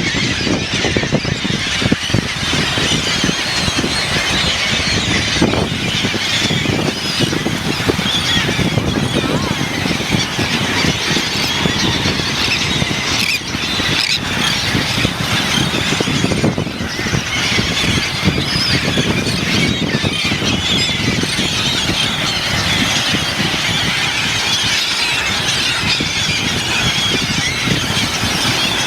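A large flock of birds calling all at once, a dense, unbroken din of high calls, with low rumbling noise underneath.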